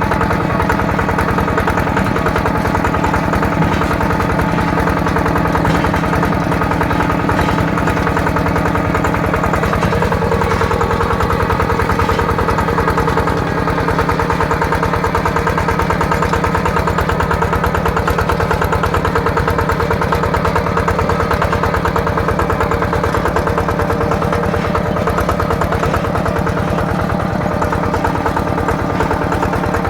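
Yanmar TF120 DI single-cylinder diesel engine of a mini tractor running steadily with a fast, even beat while the tractor is driven.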